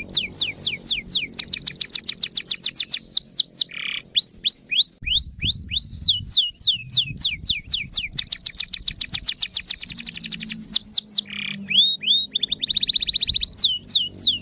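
Canary singing: long runs of rapid, identical sweeping notes, about eight a second, that change speed from one run to the next, with a short buzzy note twice.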